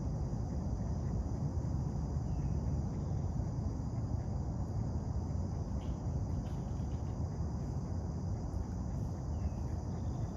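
Outdoor ambience: a steady low rumble with a faint, constant high insect hum, like crickets, above it. A couple of short bird chirps come through, about two seconds in and again near the end.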